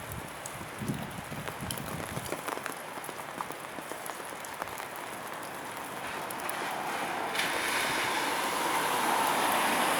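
Container freight train hauled by an EF510 electric locomotive rolling out, a steady noise of wheels on rail with a few low knocks early on. The noise swells from about six seconds in and rises abruptly a second later, staying loud to the end.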